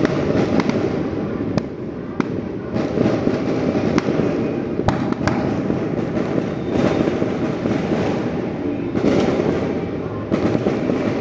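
Fireworks and firecrackers going off in a street: many sharp cracks and bangs scattered over a continuous dense rumble.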